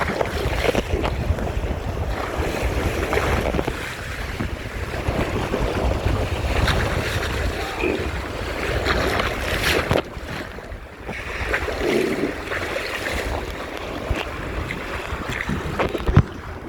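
Wind buffeting the microphone over water rushing and splashing along the hull of a Topper sailing dinghy under way, easing briefly about ten seconds in.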